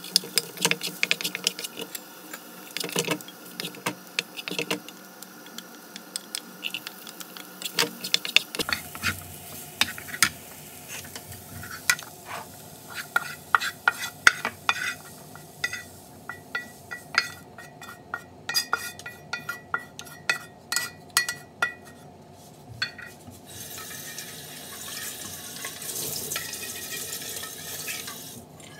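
Slotted wooden spatula scraping and knocking against a nonstick frying pan in many quick strokes, stirring and scooping scrambled egg and green peas. The clicks stop near the end, giving way to a steady hiss.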